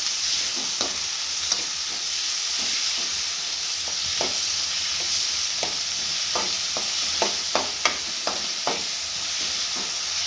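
Chopped onion, bottle gourd, tomato and raw mango frying in oil in a metal kadhai with a steady sizzle, while a metal spoon stirs them, scraping and tapping against the pan. The spoon strokes come quickest between about six and nine seconds in.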